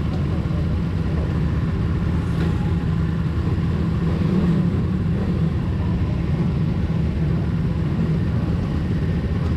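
Pit bike engine idling steadily, a low even rumble.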